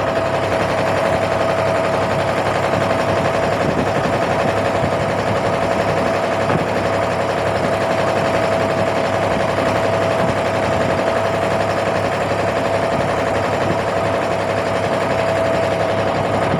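Fishing boat's engine running steadily at constant speed, with a steady whine over a low hum.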